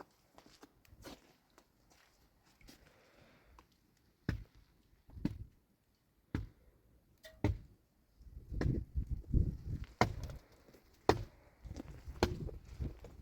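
Scattered sharp knocks and clicks, then busier low thumping and handling noise from about eight seconds in.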